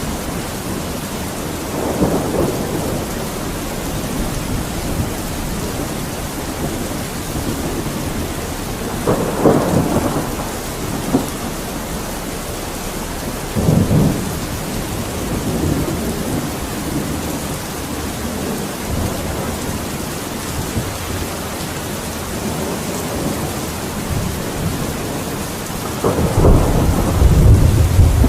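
Steady heavy rain with rolling thunder: low rumbles swell a few times, the loudest and deepest starting near the end.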